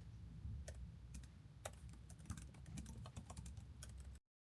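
Faint typing on a computer keyboard: irregular key clicks over a low steady hum. It cuts off abruptly near the end.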